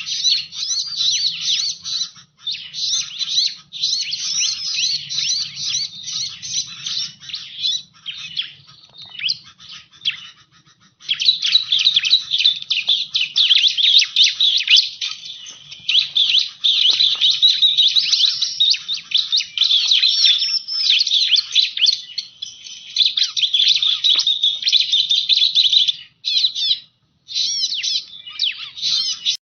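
Bar-winged prinia (ciblek) calling in a dense, fast stream of high chirps and trills, played as a bird-lure recording. The calling thins out for a couple of seconds about nine seconds in and stops briefly near the end.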